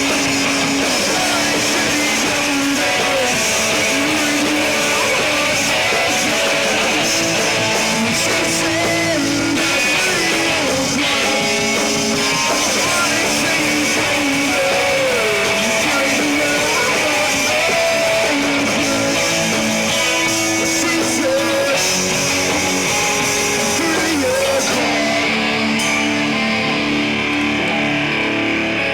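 Rock band playing a song live, with electric guitar to the fore over bass and drums.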